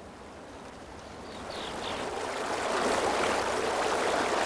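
Running water of a stream, fading in over the first few seconds and then flowing steadily, with a few faint high chirps about a second and a half in.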